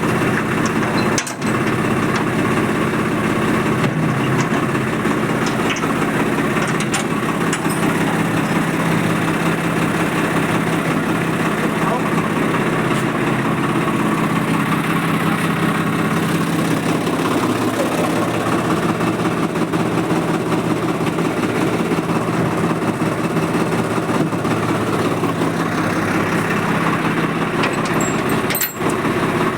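Swaraj 855 tractor's three-cylinder diesel engine idling steadily.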